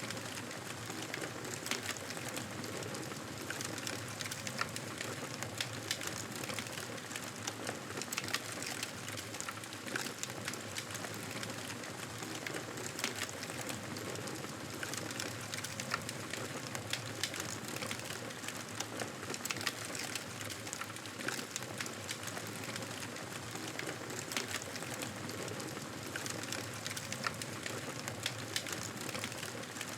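Wood fire crackling: a steady hiss with frequent small pops and snaps scattered all through.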